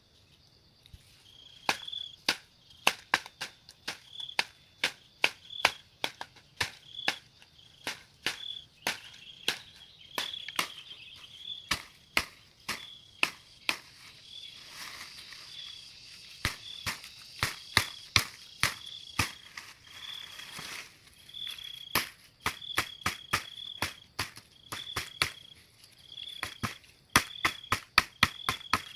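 Many sharp, irregular clicks and snaps, with a short high chirp repeating about once a second behind them.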